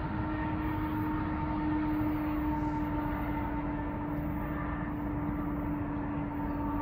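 Distant freight train locomotive running as the train moves away down the track: a steady drone with a constant hum over it.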